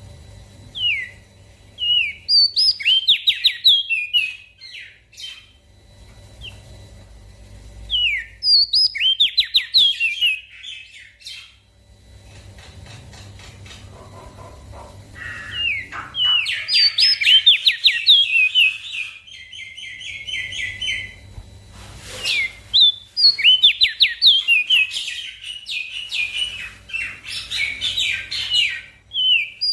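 Small songbird singing in several long phrases of quick, high, sweeping chirps, with short pauses between them, over a faint low hum. A single sharp click sounds about two-thirds of the way through.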